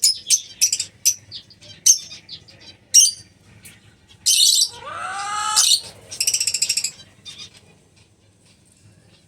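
Lovebirds chirping in short, sharp calls. About four seconds in comes a harsher, drawn-out call that glides in pitch, then a fast run of rapid pulsed notes. The chirping dies away over the last two seconds.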